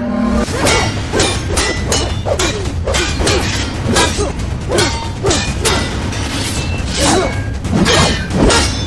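Fight-scene sound effects: a rapid, steady run of hits and whooshes, about two to three a second.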